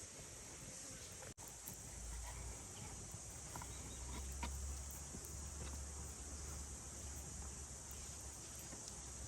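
Faint outdoor ambience with a steady high insect chirring, likely crickets, and a few light clicks. A low rumble runs underneath.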